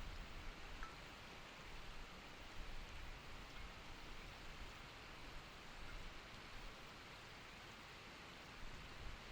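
Steady rushing of a mountain stream flowing over rocks, faint and even throughout.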